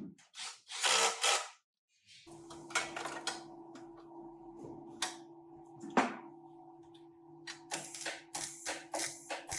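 Workshop tool sounds: a few hissing bursts, then from about two seconds in a steady machine hum with clicks and knocks of tools over it.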